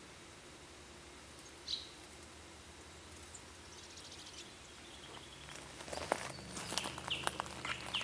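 Fairywrens calling: one high chirp about two seconds in, then from about halfway a run of quick high ticking notes and short chirps that grows busier and louder toward the end.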